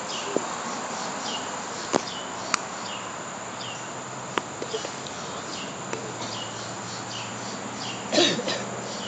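Outdoor background with short, high chirps repeating about twice a second over a steady hiss, broken by a few sharp clicks and a brief louder sound near the end.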